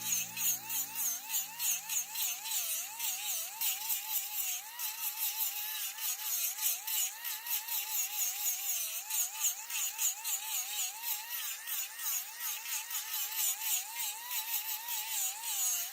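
Wood lathe turning, with a tool cutting the spinning wood: a whine that wavers up and down about twice a second over a rapid crackle.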